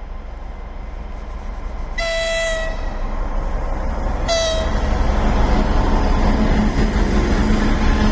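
2TE25KM diesel locomotive sounding its horn twice, a longer blast about two seconds in and a shorter one about two seconds later, over the rumble of its engine and train. The rumble grows louder as the locomotive pulls its container train out of the station.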